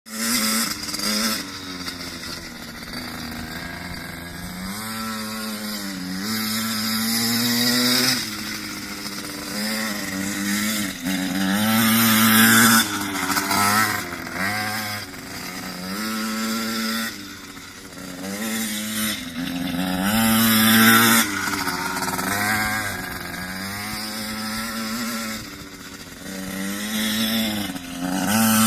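Small pit bike engine being ridden hard: its pitch climbs under throttle and drops off again every couple of seconds, over and over, with the loudest high-rev pulls near the middle and end.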